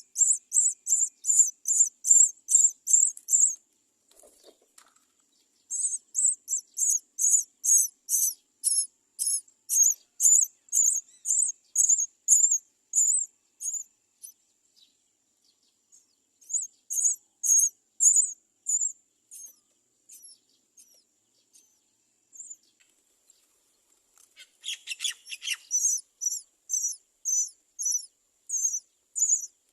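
Great myna nestlings begging at the nest, a rapid run of high-pitched cheeps at about three a second, in bouts with pauses between: hungry chicks crying for food. A harsher, lower burst joins briefly near the end.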